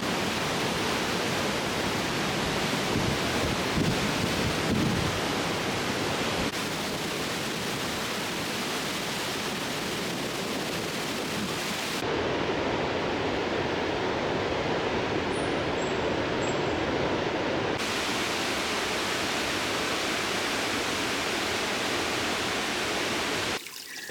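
Steady rush of water from a waterfall, an even roar of noise. It changes abruptly in tone and level about a third, halfway and three-quarters of the way through, and drops quieter near the end.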